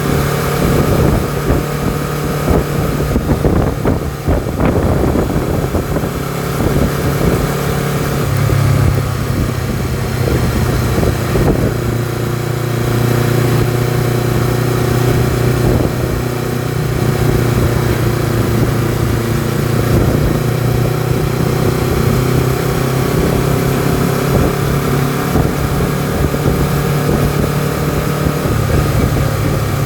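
Honda CBR250RR engine and exhaust running under way. The engine note shifts lower about eight or nine seconds in, then holds steady, with a little wind on the microphone.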